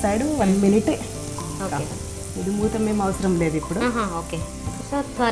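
Oil sizzling steadily under a thick multigrain thalipeeth flatbread frying in a pan, with a woman's voice louder over it.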